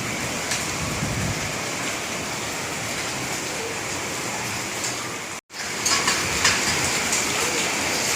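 Heavy rain with hail falling, a steady dense rush with scattered sharp hits. The sound drops out for an instant about five seconds in.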